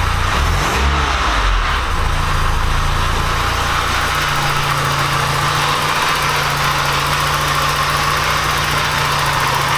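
Porsche 944 engine idling after a brief change in revs in the first couple of seconds. It runs evenly, no longer sounding like it is on three cylinders now that the exhaust gasket is fixed.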